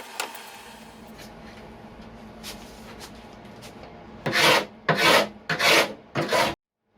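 Hand tool rubbing on wood: after a quiet stretch, four loud scraping strokes about four seconds in, each about half a second long, then an abrupt cut to silence.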